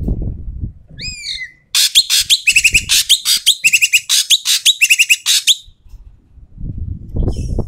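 Ekek keling (racket-tailed treepie) calling loudly and harshly: a single down-slurred call, then about four seconds of rapid, rasping chatter. A low rumble sits under the start and the end.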